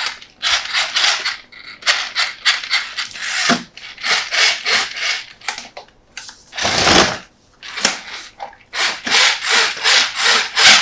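Toy packaging being handled and rubbed in an unboxing: a quick, irregular run of short scraping, rustling strokes, with one longer, heavier rasp about seven seconds in.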